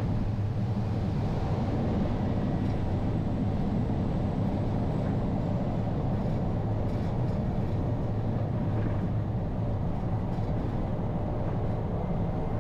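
Cabin noise of a Cessna Caravan during landing: its single turboprop engine and propeller running with a steady low drone.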